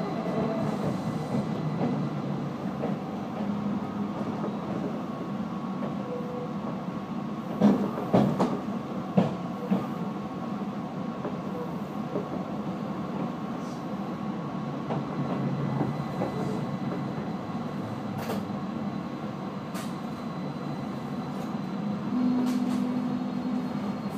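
Tobu 30000 series train with permanent-magnet synchronous traction motors, running and slowing into a station: a steady rumble of wheels with a thin, steady high motor whine over it. A few sharp clacks come about eight seconds in.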